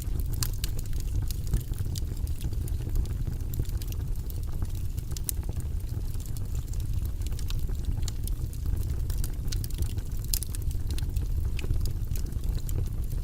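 Wood fire burning in a fireplace: a steady low rumble of flames with frequent small crackles and pops at irregular moments.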